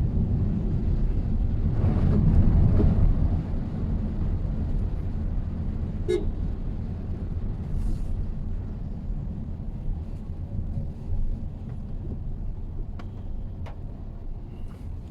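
Steady low road and engine rumble of a Mitsubishi Xpander being driven, a little louder in the first few seconds. A single short car-horn toot sounds about six seconds in.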